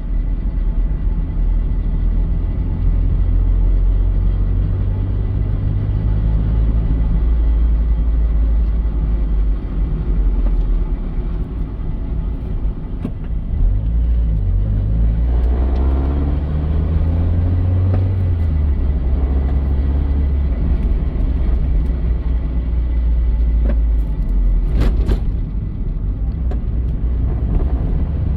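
Mazda Eunos Roadster (NA8C) running, its engine note shifting in pitch a few times over a steady low rumble, with a thin steady high tone above it. The owner hears something dragging or rubbing in this car and is recording it as an abnormal noise.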